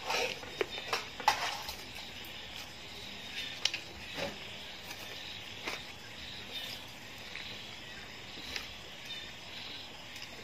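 Mouth sounds of someone eating roast chicken with his hands: chewing and lip-smacking, with a cluster of sharp clicks in the first second and a half and a few more later. Under it runs a steady high hiss of insects chirping.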